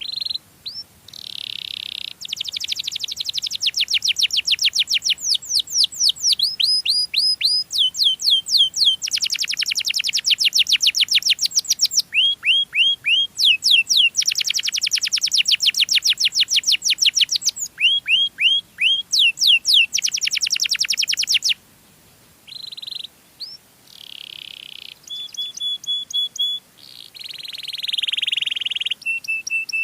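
Canary singing: long, fast trills of rapidly repeated sweeping notes alternating with slower phrases of a few distinct chirps, with a couple of short pauses in the second half.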